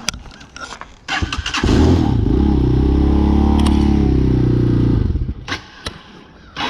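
Cold Hawk 250 motorcycle engine being started: it catches about a second and a half in, runs steadily for about three seconds, then dies. A few clicks follow, and it is started again right at the end.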